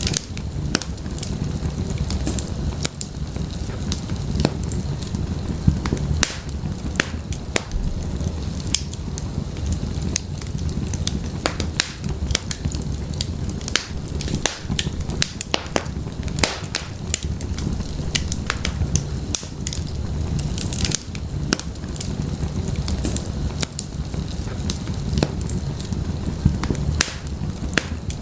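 Wood fire burning in an open fireplace: a steady low rumble of flames with irregular sharp crackles and pops from the burning firewood.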